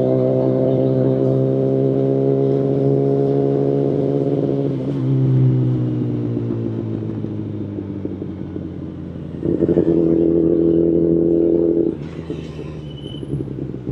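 Kawasaki Ninja ZX-10RR inline-four through an Akrapovic Evolution full carbon exhaust, running steadily at speed. About five seconds in the note shifts and then sinks in pitch as the bike slows. Past the middle it opens up again, louder at a steady pitch, for about two and a half seconds, then cuts off sharply as the throttle closes.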